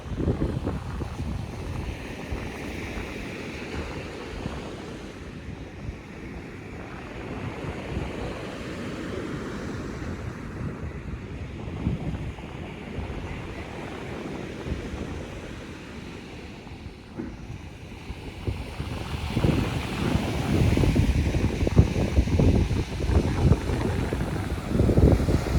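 Sea surf washing on a beach under steady wind, with wind buffeting the microphone in low rumbling gusts that grow stronger over the last several seconds.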